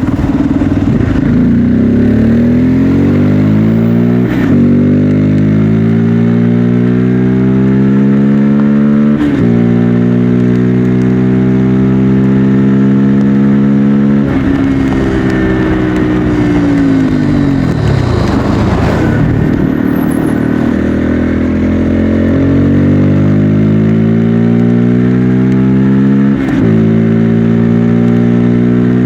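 Bajaj Pulsar N250 single-cylinder engine and exhaust under way. It climbs in pitch through the gears, with brief breaks at upshifts about four and nine seconds in, holds steady, winds down in pitch for a few seconds past the middle, then climbs again with another shift near the end.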